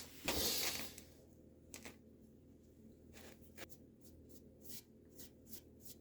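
Paintbrush working POR-15 rust paint onto the back of a steel bumper: a short rustle about half a second in, then a run of faint, light brushing strokes.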